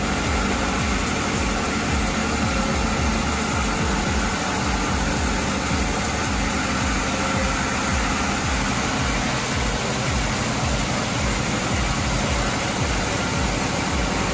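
Heavy machinery running steadily, an engine-like drone with a fast low throb underneath.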